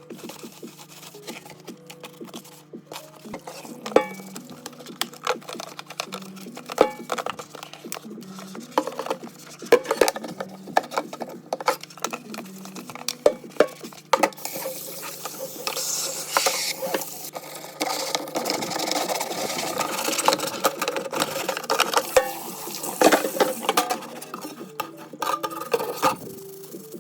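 Espresso machine parts and dishes being handled and cleaned: repeated clinks and knocks of metal and ceramic. About halfway through, a rushing hiss of water or steam begins and lasts several seconds.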